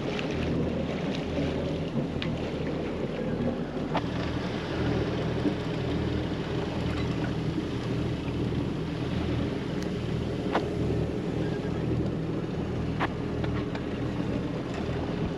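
A sailboat's inboard engine running steadily: an even, low drone with a few light clicks.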